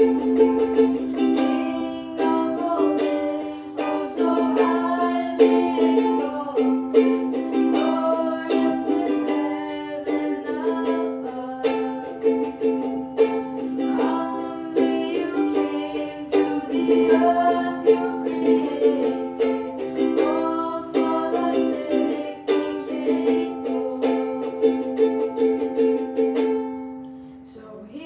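Hymn music with strummed string accompaniment over steady held notes and a melody line, some voices singing along. The music dips briefly near the end, then carries on.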